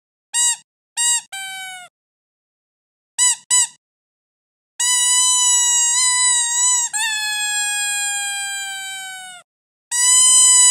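Rubber squeaky dog toy being squeezed: two short squeaks and a longer one that slides down in pitch, then two more quick squeaks, then long high squeals that sag slowly in pitch, the last starting near the end.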